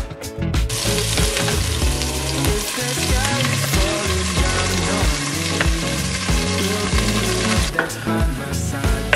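Food frying in a pan, with a steady sizzle that sets in within the first second and thins out near the end.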